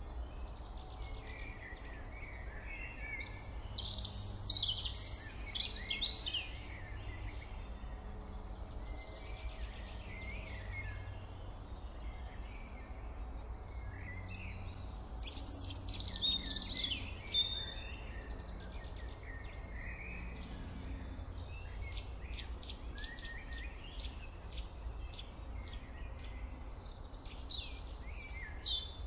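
Birds chirping in three short bursts of quick, high calls, about four seconds in, about fifteen seconds in and near the end, over a steady low hum.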